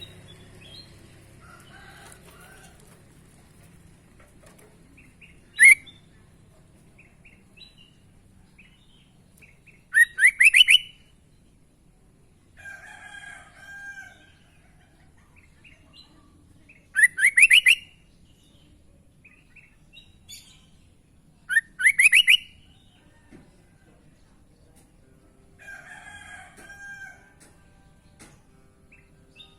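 Sooty-headed bulbul (kutilang) calling: loud, short phrases of quick rising notes, each under a second, repeated every five or six seconds. Softer, lower chattering phrases come in between.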